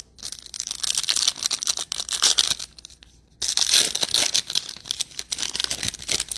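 A trading card pack's wrapper being torn open and crinkled, in two spells of about three seconds each with a short pause between.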